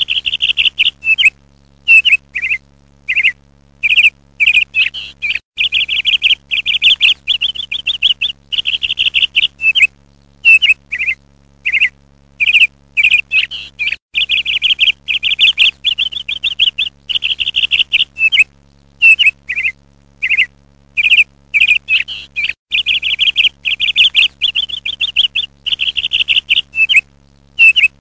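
Bird chirping: loud, fast trilled chirps in short bursts of about half a second to a second, repeating with brief gaps, over a faint steady low hum.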